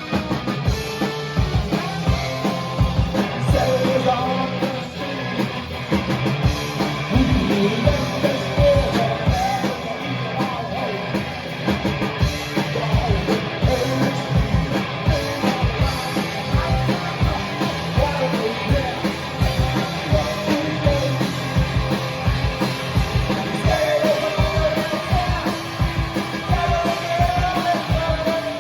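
Rock band playing live: a steady, driving drum beat with guitar and a singing voice.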